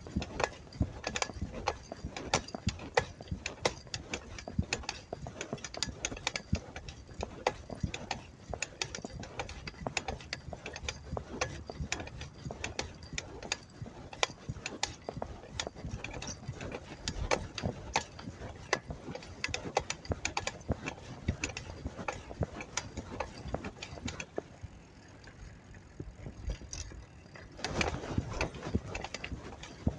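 Bicycle clicking and rattling while being ridden, with irregular ticks and knocks, quieter for a few seconds near the end.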